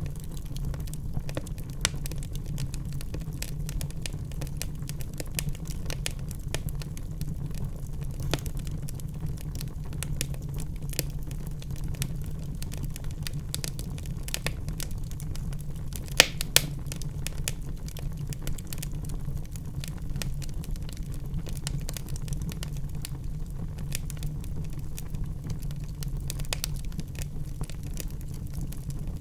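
Wood fire in a fireplace crackling, with frequent sharp pops over a steady low rumble of the flames; the loudest pops come about halfway through.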